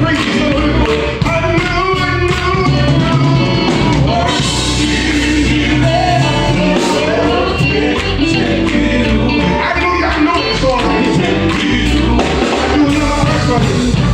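Gospel singing with instrumental backing, loud and continuous.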